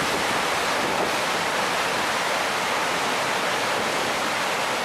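Fast, high river water rushing steadily over a drop-off in a concrete-lined riverbed, a dense even roar of flowing water.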